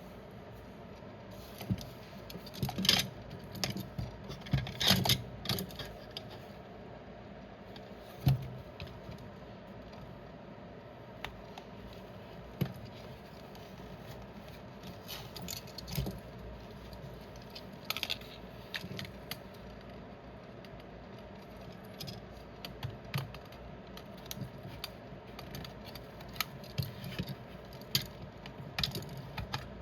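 Irregular small clicks, taps and scrapes of tools on the plastic housing of wireless headphones as the battery side is opened up. The busiest clattering comes in two short spells a few seconds in.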